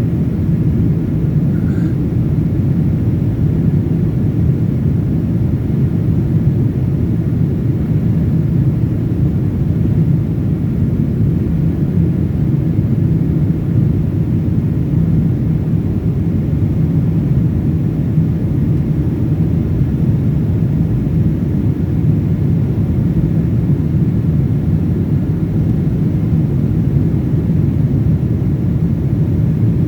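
Airliner cabin noise in flight: a steady, even low rumble of the engines and rushing air heard from inside the cabin.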